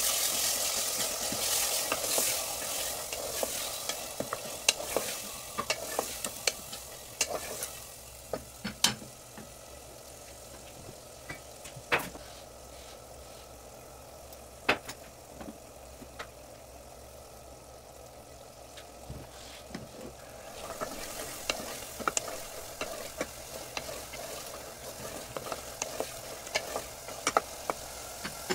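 Minced meat frying and sizzling in a pressure cooker pot while it is stirred with a wooden spatula, which scrapes and knocks sharply against the pot now and then. The sizzle is louder over the first few seconds and again from about two-thirds of the way in, and quieter in between.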